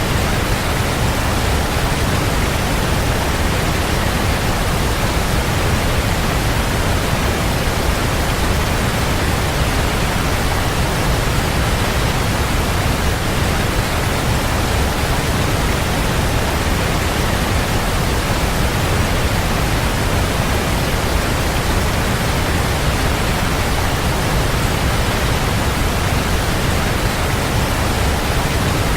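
Waterfall: a steady, loud rush of falling water, even and unchanging throughout, heaviest in the low end.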